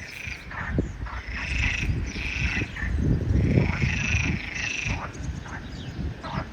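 Frogs calling: a run of repeated calls, each about half a second long, over a steady low rumble.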